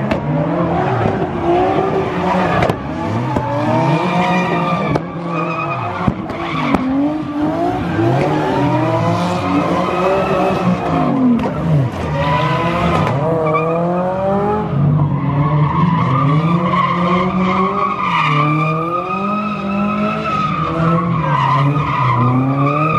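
Car engine revving hard at high load, its pitch sweeping up and down again and again every second or two, with tyres squealing as the car skids.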